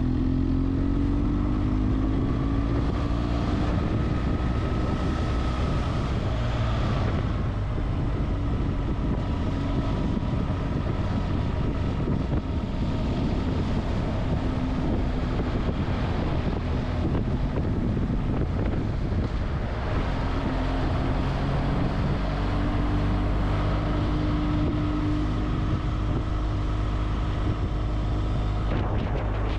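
Motorcycle engine running under way, its pitch rising and falling with the throttle, under heavy wind noise on the microphone.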